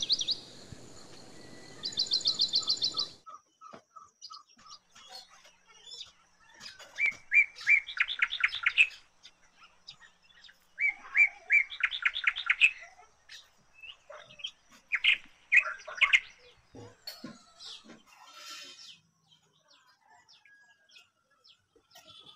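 Birds singing, several bursts of rapid trilled song made of quickly repeated notes, each phrase a second or two long. A steady hiss cuts off about three seconds in, and faint small clicks come near the end.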